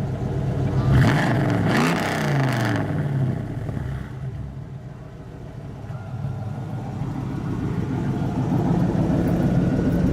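Car engine breathing through long-tube headers, a dual Y-pipe and a GMMG exhaust: it idles with a rumble, is revved once to about 4,000 rpm about a second in, and falls back to idle, then runs steadily.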